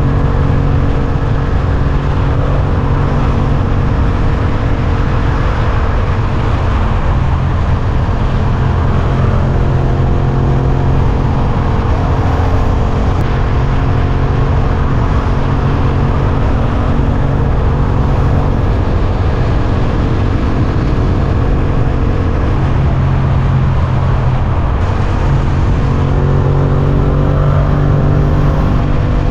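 Suzuki GSX-8S motorcycle's 776 cc parallel-twin engine running under way at a fairly steady speed. The revs shift slightly up and down in the last few seconds.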